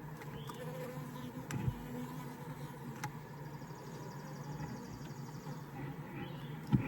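Honeybee colony in an open Layens horizontal hive buzzing in a steady hum, with a couple of short knocks; the loudest comes near the end.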